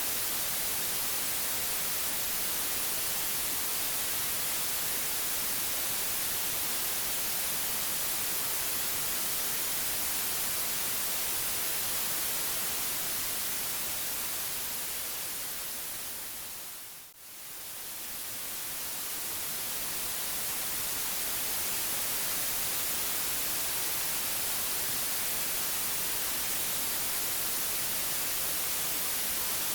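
Steady white-noise hiss, strongest in the highs. It fades down to a brief low point about seventeen seconds in, then swells back to full level, like a loop seam in the recording.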